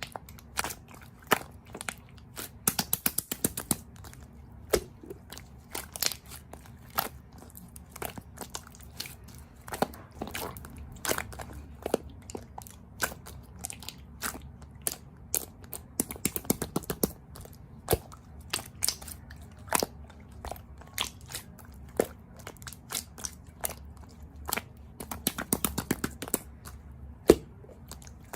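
Close-miked chewing of crisp, crunchy food: quick, irregular crackling crunches, with denser flurries a few times.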